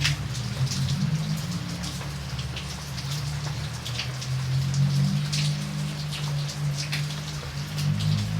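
Steady rain, with separate drops ticking sharply on a surface over a constant low rumble.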